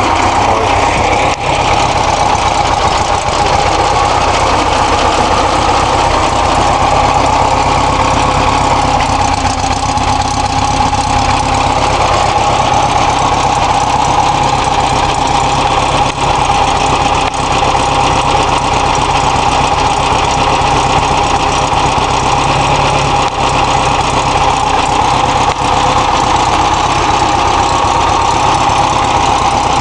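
VW T2 bus's air-cooled 1600 flat-four engine idling steadily, running again after seven years laid up.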